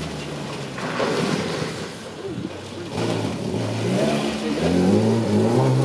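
Mk2 Ford Escort rally car's engine revving on a gravel stage: the revs drop away briefly about two seconds in as the driver comes off the throttle, then climb steadily and loudly under hard acceleration toward the end.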